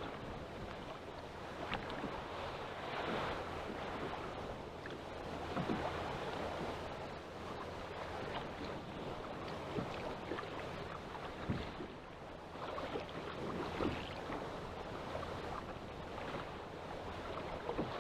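Choppy sea water lapping and splashing against a small boat's hull, swelling and easing every few seconds, with wind on the microphone and a few small knocks.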